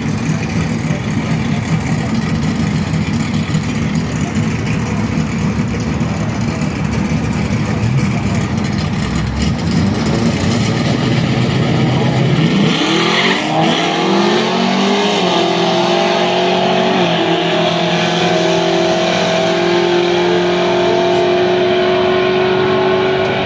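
Drag race car's engine rumbling at low revs, then, a little past halfway, launching down the strip: its pitch climbs quickly and then holds high and steady at full throttle, with a small step in pitch a few seconds after the launch.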